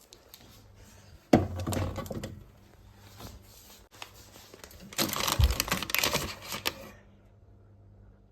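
Plastic snack or ice-cream packaging crinkling and rustling as it is handled, in two bursts: a short one about a second in and a longer, louder one near the middle.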